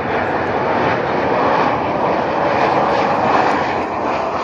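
Jet airliner engines, a loud, steady rushing noise that swells slightly in the middle.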